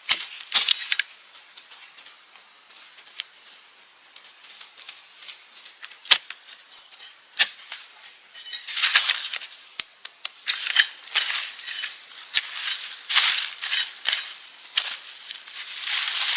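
Scattered sharp clicks and snaps, then from about halfway on, dense rustling and crackling in quick bursts, as of dry material being handled.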